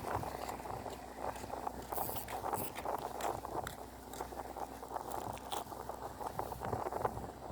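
Irregular small clicks, taps and rustles of fishing tackle being handled close by.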